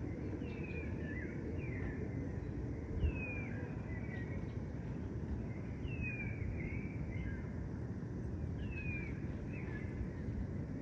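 Birds calling: short, downward-slurred whistles repeated every second or few, over a steady low rumble of distant traffic. A single brief low thump sounds about three seconds in.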